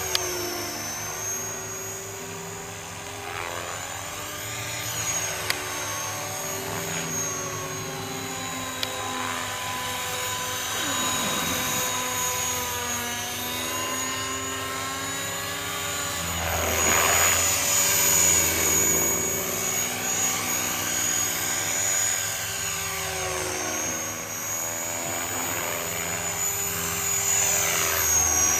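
Radio-controlled model helicopter in flight: a high steady whine over engine and rotor tones whose pitch sweeps up and down again and again as it passes back and forth, growing louder a little past halfway.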